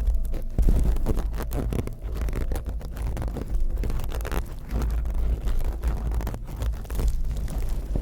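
Close-miked ASMR trigger sounds: irregular scratching and rustling handled right at the microphone, with a steady low rumble of handling noise underneath.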